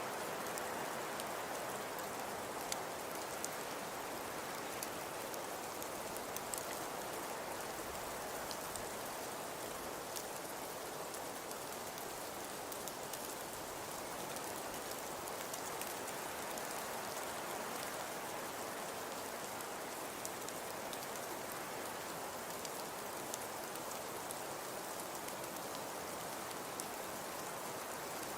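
Crackling wood fire in a fireplace: a steady soft hiss with scattered small pops and snaps.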